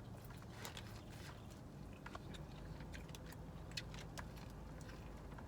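Close-up mouth sounds of biting into and chewing seasoned corn on the cob: scattered faint crunches and smacks over a low steady hum.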